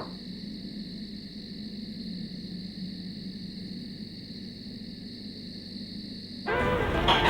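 Quiet background ambience: a steady high-pitched buzz over a low hum, with music starting suddenly near the end.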